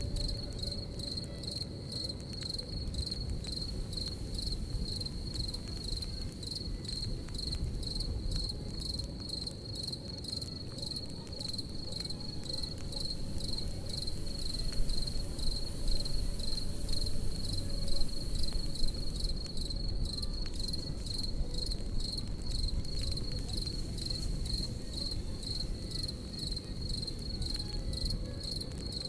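Crickets chirping in a steady, rapid pulse over a crackling campfire, with small pops and a continuous low rumble underneath.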